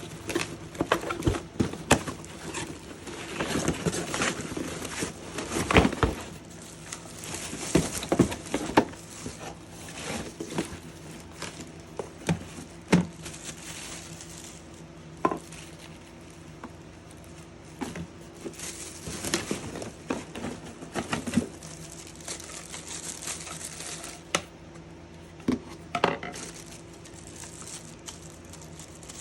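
Irregular clicks, knocks and rustling of a handheld cordless vacuum cleaner's plastic parts and packaging being handled, with a faint steady hum underneath.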